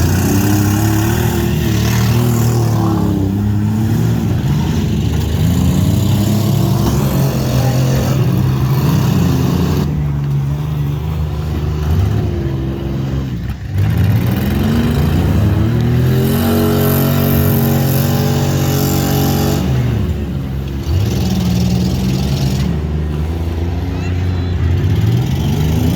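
Demolition derby cars' engines revving hard, their pitch repeatedly rising and falling as the cars accelerate and back up.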